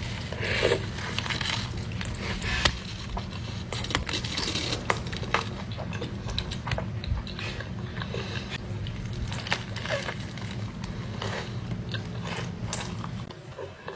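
A person eating close to the microphone: repeated bites and wet chewing with short crunchy clicks, irregular throughout.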